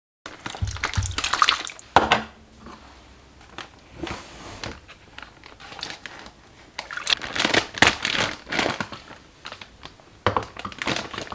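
Plastic gallon freezer bag crinkling and rustling as it is handled and filled, in short irregular spells with quieter gaps between.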